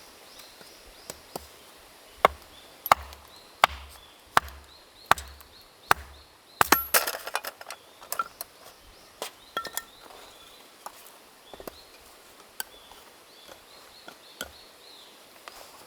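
Chopping: a run of about seven sharp strikes, roughly one every 0.7 s, then a short clatter with a ringing clink near the middle, followed by lighter, scattered knocks.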